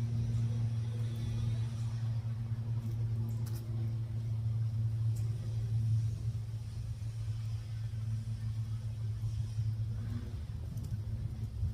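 Road traffic: a low, steady engine rumble from a vehicle running close by.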